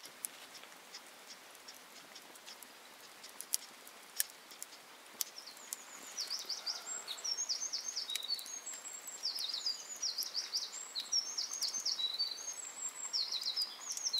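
Wild bird singing: a rapid string of short, high chirps sweeping downward, starting about halfway in and repeating over and over. Scattered faint ticks and clicks come before it.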